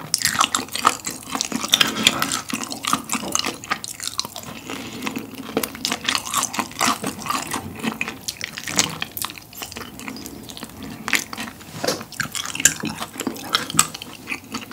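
Close-miked eating sounds: wet chewing, lip smacks and clicks of the mouth as a piece of fried chicken is gnawed off the bone, in a quick irregular run.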